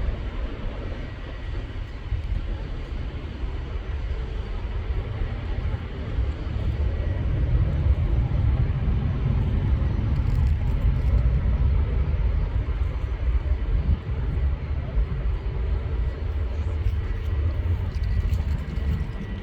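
Jet airliner engines rumbling, swelling a few seconds in and easing off near the end.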